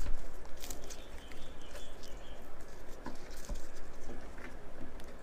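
Close-up eating sounds: someone chewing food near the microphone, with small irregular clicks.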